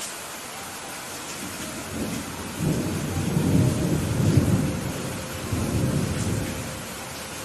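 Steady rain with a long roll of thunder that builds about two seconds in, rumbles in a few swells and dies away near the end.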